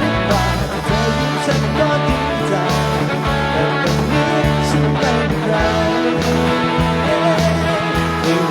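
Rock band playing an instrumental passage: guitar over a steady bass and drum beat.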